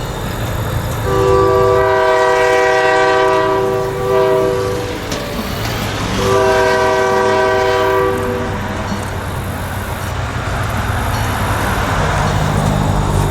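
Diesel freight locomotive's air horn sounding a chord: a long blast, a brief short one, then another long blast, the tail of a grade-crossing signal. The locomotive's engine rumbles underneath, and the wheels' rolling noise on the rails builds near the end.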